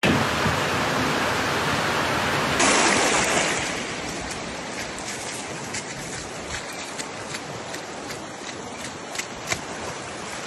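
Rushing floodwater, a steady noise of flowing water. The sound changes abruptly about two and a half seconds in and turns quieter, with scattered clicks and knocks over the water.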